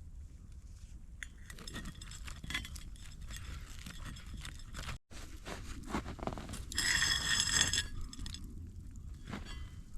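Scraping and clinking of objects being handled, with a louder metallic jingle lasting about a second near seven seconds in.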